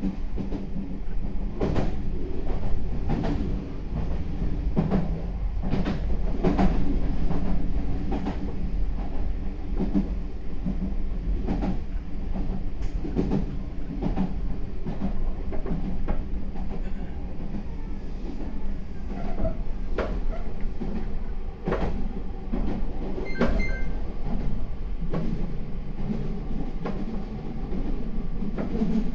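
Meitetsu 4000 series electric train running, heard from inside the front car: a steady low rumble of wheels on rail, with irregular clicks over rail joints every second or two. A short high beep sounds late on.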